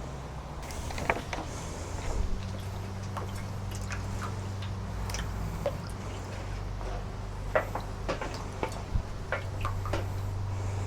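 Water splashing and dripping in a small tub as wet paper is moved through it and lifted out, in scattered small splashes and drips over a low steady hum.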